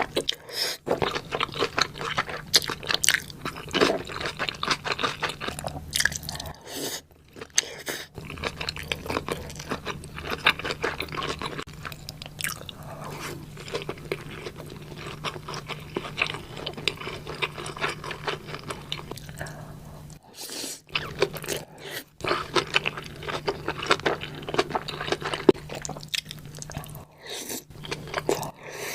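Close-miked chewing and crunching of mandoo dumplings: a dense run of small wet clicks and crunches, with a few brief pauses and a faint steady low hum underneath.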